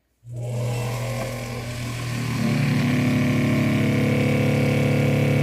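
Seaflow 12-volt RV water pump switching on and running with a steady motor hum. About two and a half seconds in it gets louder and its tone shifts.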